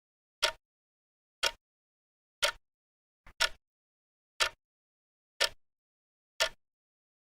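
Countdown timer sound effect ticking once a second: sharp clicks with dead silence between them, one of them doubled about three seconds in.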